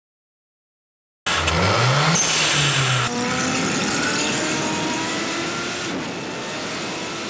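Turbocharged Suzuki GSX-R1000 K4 inline-four engine revving. After about a second of silence it revs up sharply. A cut then follows into a longer run where the engine pitch climbs steadily, as in hard acceleration, and the sound changes again near the end.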